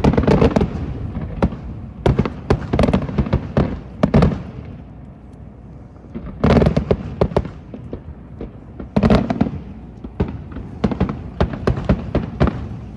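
Fireworks going off: volleys of sharp, rapid pops, about half a dozen bursts with short quieter gaps between them.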